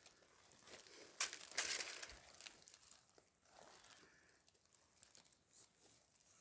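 Faint rustling and crinkling, loudest in a short burst a little over a second in, then scattered light crackles.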